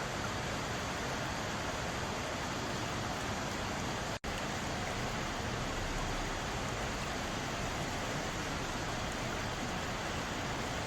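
Mountain valley stream: water rushing and burbling steadily over rocks, with a split-second cut to silence about four seconds in.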